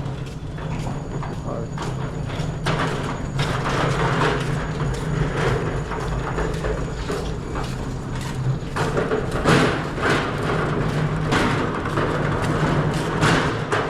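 A store cart being pushed across a hard floor: a steady rumble from its wheels, with irregular rattles and clacks.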